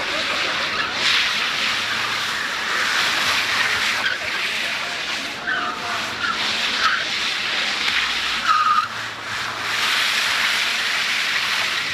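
Car tyres screeching almost continuously as a car drifts, with short higher squeals several times.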